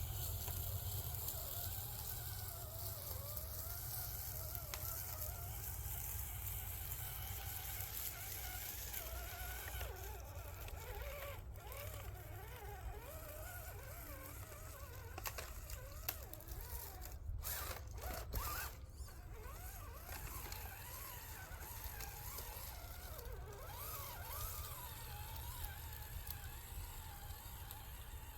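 Small electric motor and gear drive of a radio-controlled scale crawler whining, its pitch rising and falling as the throttle is worked, with a few sharp clicks a little past the middle.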